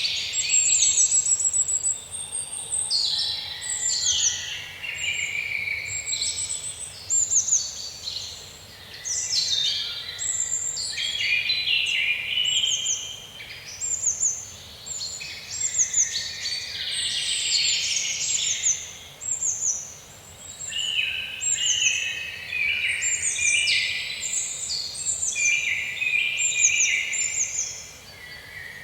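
Birds chirping and singing: a dense run of short, high calls, many of them quick downward sweeps, overlapping from several birds with brief lulls between bursts.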